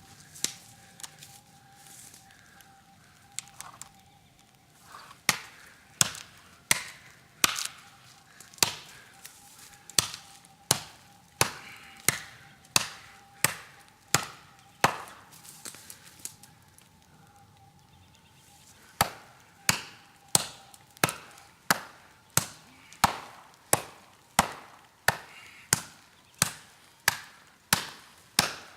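Steel golok blade chopping into a tree trunk, sharp strokes about one and a half a second, with a few seconds' pause in the middle before the chopping resumes.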